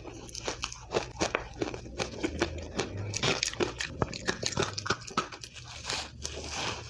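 Ice being bitten and chewed close to the microphone: a dense, irregular run of sharp crunches and cracks as the ice breaks between the teeth.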